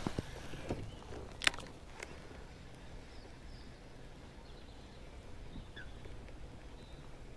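A few faint short bird chirps, one dropping in pitch, over a quiet outdoor background, with a sharp click about a second and a half in.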